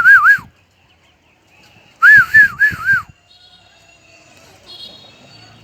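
A crested songbird singing loud, clear warbling whistled phrases: one phrase ends about half a second in, and a second phrase of about four looping notes comes about two seconds in. Faint high chirps follow.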